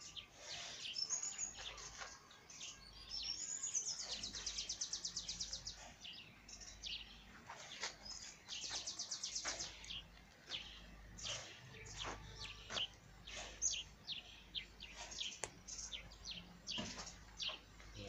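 Birds chirping and calling, with many short high chirps and two rapid trills of fast repeated notes, one about four seconds in and another around eight seconds in.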